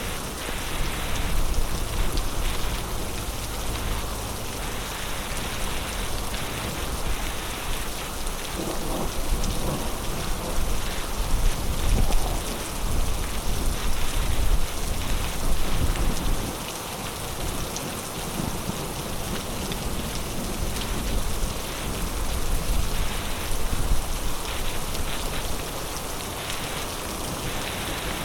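Heavy storm rain pouring steadily, with low thunder rumbling up and swelling through the middle.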